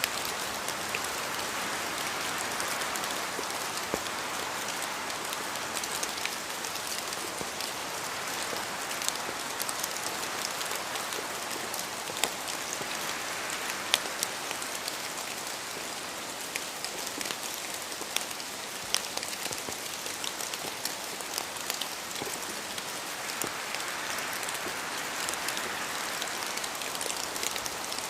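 Steady rain with many separate drops ticking sharply. The rushing hiss swells gently twice, early and again near the end.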